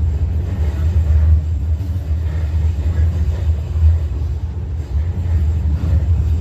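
Steady low rumble of a moving UTA light-rail train, heard from inside the car.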